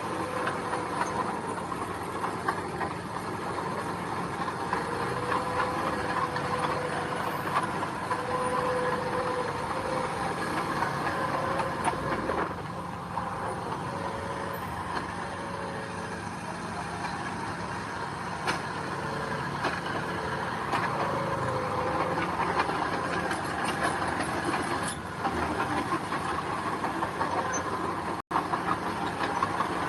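Heavy diesel earthmoving machinery running steadily, an engine drone with a wavering whine that comes and goes through the middle; the sound drops out for an instant near the end.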